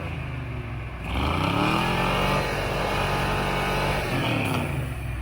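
Vehicle engine revving up about a second in, held at high revs for about three seconds, then dropping back near the end, as a vehicle is yanked free on ice.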